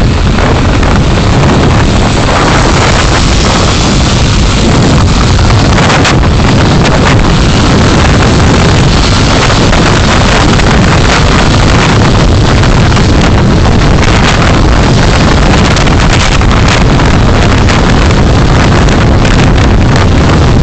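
Steady, loud road and wind noise of a car driving, recorded by a dashcam microphone.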